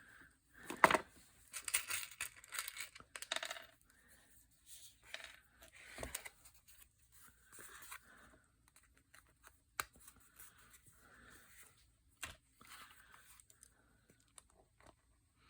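Paper being handled at a craft table: irregular rustling and sliding of paper, with a few short sharp clicks or taps spread through.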